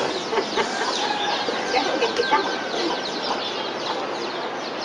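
Birds chirping in a busy chorus of short, high, falling chirps, several a second.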